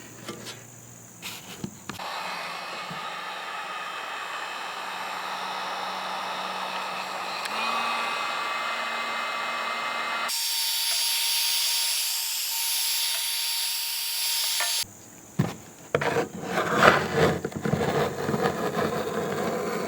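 Heat gun running steadily for several seconds as it warms old lap sealant, its sound changing partway. It is followed by a wood chisel scraping the softened sealant off the camper roof in short, irregular scratchy strokes.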